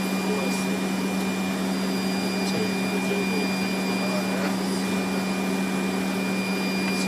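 Steady flight-deck noise of a Fokker 100 airliner in flight: an even rushing hum with a steady low drone and a thin high whine over it.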